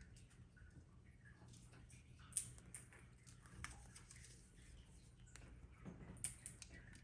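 Faint, irregular clicks and small crunches of a cockatiel's beak nibbling food held in its foot, two of them a little louder about two and a half seconds in and near the end.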